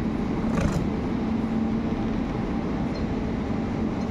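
Steady low hum of an electric train standing at the platform, mixed with the creak and rattle of a wheelchair rolling along the platform, and one short knock about half a second in.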